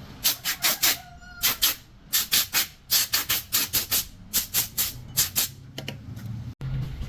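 Quick, rhythmic scratchy strokes in runs of three to five, about four a second, with short pauses between runs.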